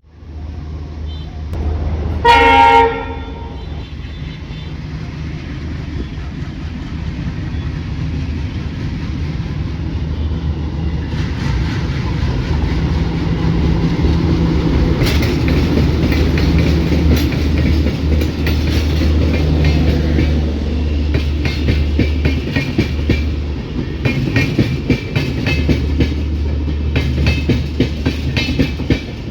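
A diesel locomotive sounds one short horn blast about two seconds in, over its engine's steady low drone. The train then runs by, and the rattle and clatter of its wheels on the rails grows louder and busier toward the end.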